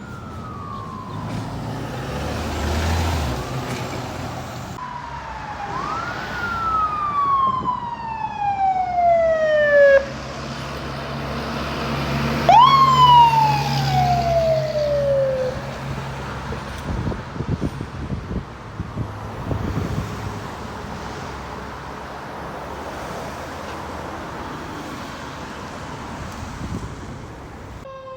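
Fire truck siren wailing as the truck passes, each wail rising quickly and then falling slowly, with a heavy engine rumble under the second wail. The siren stops about halfway through, leaving traffic noise.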